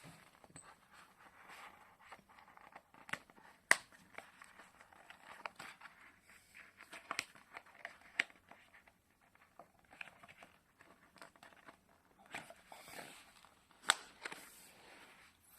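Rustling and handling sounds, with several sharp clicks scattered through; the loudest clicks come about four seconds in and near the end.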